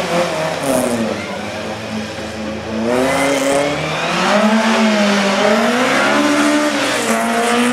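Small hatchback race car's engine revving hard through a slalom course, the pitch rising and falling every second or two as the driver accelerates and lifts between the cones.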